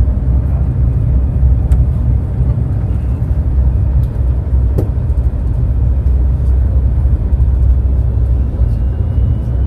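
Steady low rumble of a ferry underway, with a few faint clicks.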